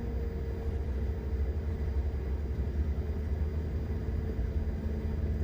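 Steady low rumble and hum inside an airliner cockpit, with one engine already started and running on the ground.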